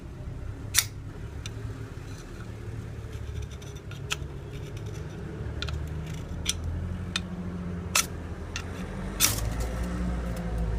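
Ferrocerium rod (pederneira) struck again and again with a scraper, about ten short, sharp metallic scrapes at irregular intervals, throwing sparks at a paraffin-soaked cotton firestarter that has not yet caught. A steady low rumble runs underneath.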